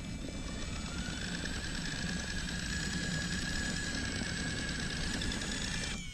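Electric motor and gear drive of an RC truck whining under steady throttle. The pitch rises over the first second, then holds, and cuts off near the end.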